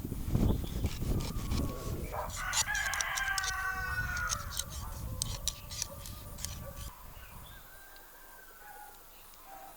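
A rooster crows, one long call starting about two seconds in, over a low rumble and a scatter of sharp clicks; a fainter call follows later.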